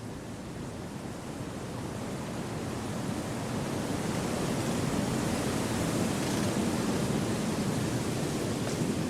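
Wind blowing through forest trees: a steady rushing that swells slowly louder over the first few seconds, then holds.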